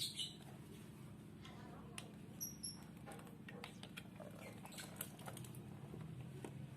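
A steady low mechanical hum, with scattered light clicks and taps over it.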